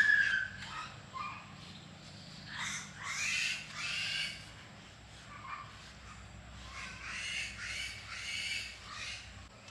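Bird calls, several short calls in a row in two groups a few seconds apart, after a sharp loud sound right at the start.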